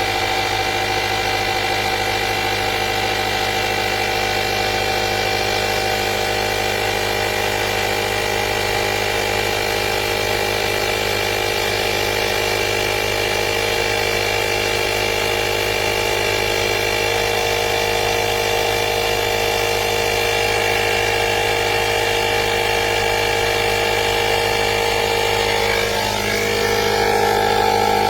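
Portable jump starter's built-in air compressor running with a steady whining drone. About 26 seconds in, its note shifts and it gets slightly louder.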